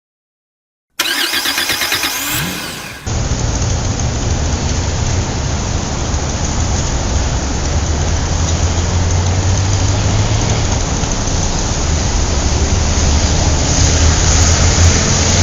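Car engine starting, about two seconds of start-up with rising pitch, then running steadily with a deep rumble.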